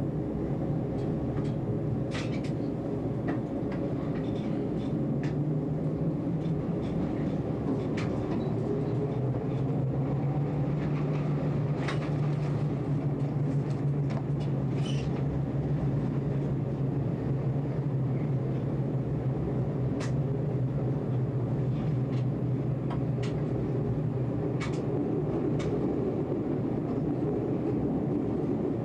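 Electric tram running on its track, heard from the driver's cab. A steady motor hum shifts slightly in pitch as speed changes, with scattered sharp clicks and knocks from the wheels on the rails.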